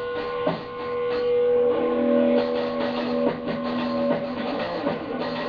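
A band jamming: electric guitar through an amplifier holding long sustained notes, with drum hits in between.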